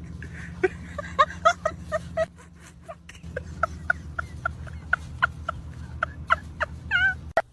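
A bird giving a run of short clucking calls, several a second, with a longer wavering call near the end, over a steady low hum.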